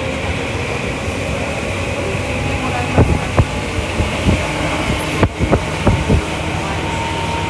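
Tokyu Toyoko Line commuter train running at speed, heard from inside the car: a steady rolling rumble of wheels on rail with scattered sharp clicks and knocks from the track.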